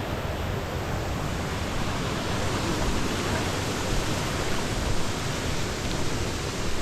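Steady rushing noise of a small mountain stream's running water.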